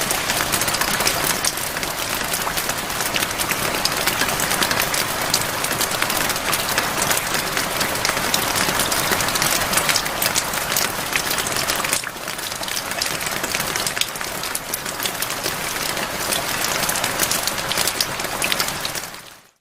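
Steady heavy rain, a dense hiss full of individual drop patters, easing slightly about two-thirds of the way through and fading out at the end.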